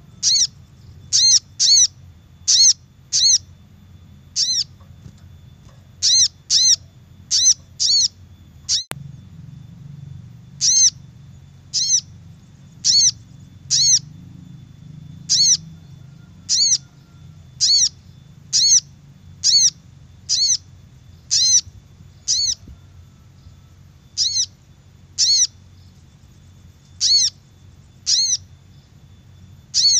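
Spiderhunter (sogok ontong) call played as a bird lure: short, sharp, high call notes repeated about once a second in runs of two to four with brief pauses between runs. A faint steady high tone runs underneath, and a single click sounds about nine seconds in.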